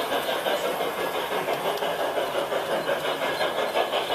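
G-scale garden railway train running along its track: a steady mechanical running noise that pulses evenly, about six times a second.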